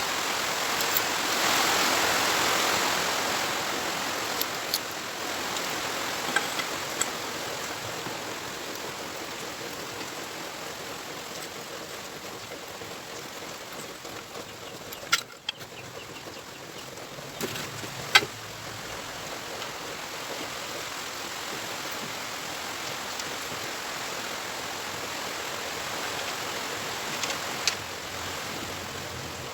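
A steady rushing hiss, loudest in the first few seconds, broken by a few sharp clicks, the loudest a little past the middle.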